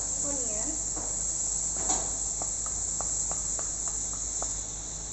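Chopped garlic and onion sizzling in butter in a hot pan: a steady high hiss with scattered small crackling pops.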